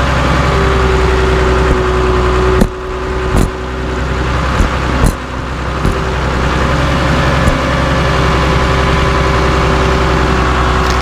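Cat D3C LGP bulldozer's diesel engine running steadily with a held whine, while it crushes scrap tire-and-wheel assemblies. Several sharp bangs come between about two and a half and five seconds in, the first the loudest.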